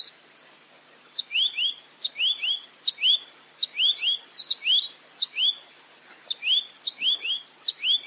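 Rambatan (nuthatch) calling in a fast, repeated series: short upward-sweeping whistled notes, mostly in quick pairs, each pair led by a brief high chip, coming almost every second with a pause of about a second near the middle.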